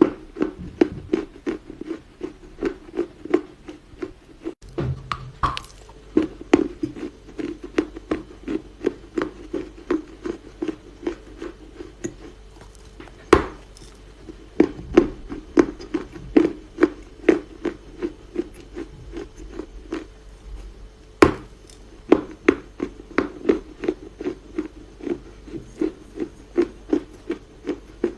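Baked Chinese loess (clay earth) being chewed: a steady run of soft crunches, about two to three a second, with two sharper, louder snaps where a fresh piece is bitten.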